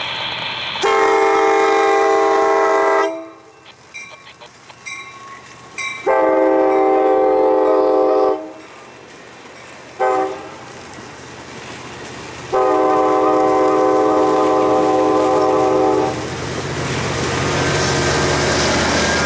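Multi-chime air horn of an approaching BNSF ES44DC freight locomotive sounding the grade-crossing signal: two long blasts, a short one, then a final long blast. Near the end the low rumble of the oncoming train grows louder.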